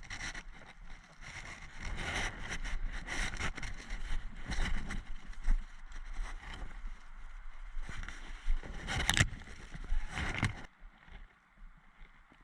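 Irregular rustling, knocking and clicking close to the microphone, with a sharper clatter about nine seconds in; the noise drops away after about ten and a half seconds.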